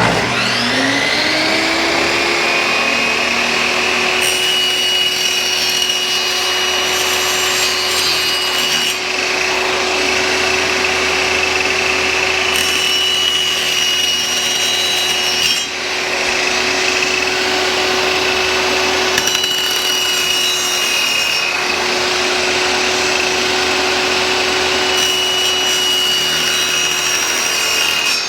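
Electric power tool motor spinning up and then running steadily, with four stretches of harsher cutting noise as it cuts into wooden beehive frames.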